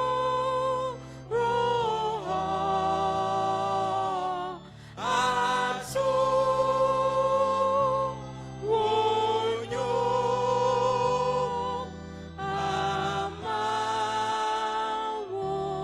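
A slow hymn sung in long held notes, phrase by phrase with short breaths between, over sustained low accompaniment chords that change every second or two.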